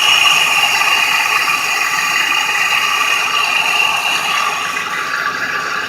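Car engine idling steadily with a high, even whine, just started after an oil pan and gasket replacement and being checked for leaks.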